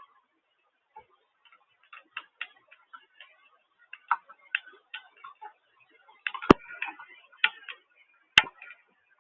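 Irregular taps of water drops striking a hard surface close to the microphone, scattered and uneven rather than a steady hiss, with two sharper, louder clicks near the end.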